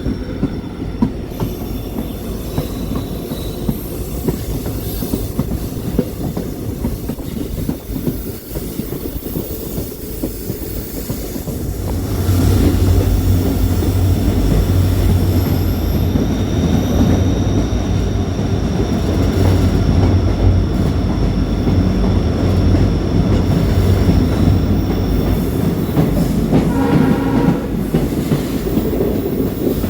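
Train running along the track: a steady rumble of wheels on rails with a thin, high wheel squeal, getting louder about twelve seconds in.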